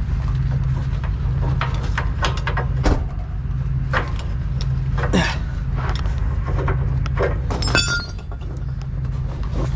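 Truck engine idling steadily, with scattered clicks and knocks and a quick run of ringing metallic clinks near the end.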